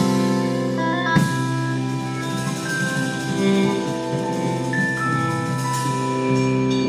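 A live band playing instrumental blues-rock: long held notes over drums, with one sharp drum hit about a second in.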